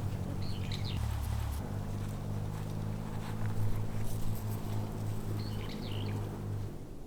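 A bird gives two short bursts of chirps, one about half a second in and one near the end, over a steady low hum that fades just before the end.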